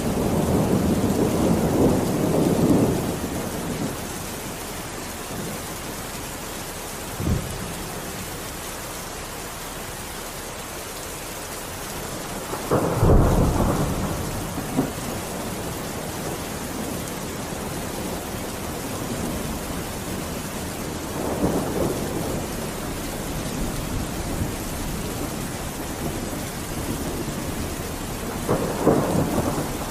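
Steady rain with several rolls of thunder rumbling over it. There is a rumble at the start, a short low thump about seven seconds in, a louder roll about halfway through, and further rumbles later and near the end.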